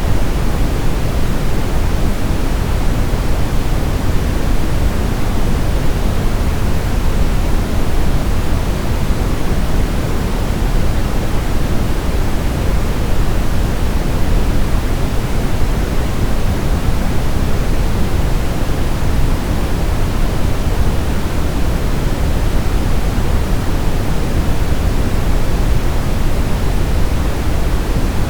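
Steady brown noise: an even, unchanging rush strongest in the low end and falling away toward the highs, like a deep distant waterfall.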